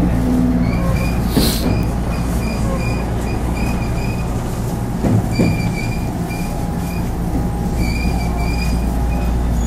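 JR West 221 series electric train running, heard from inside the front car, with a steady rumble of wheels and motors. A thin high-pitched squeal from the wheels starts and stops again and again.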